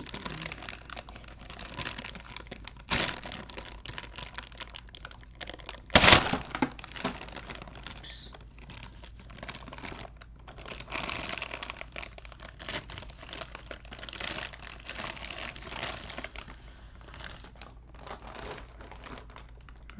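Figure packaging being handled and opened, with irregular crinkling and rustling and a sharp knock about six seconds in.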